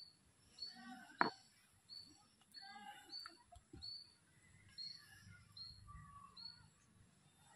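Bird calls outdoors: short high chirps repeating about twice a second, with some lower chirping mixed in. A single sharp knock about a second in is the loudest sound.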